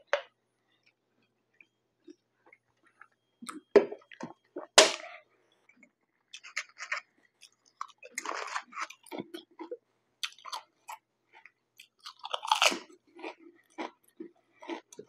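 A person eating French fries close to the microphone: irregular chewing with small crunches and mouth clicks, and two louder sharp sounds about four and five seconds in.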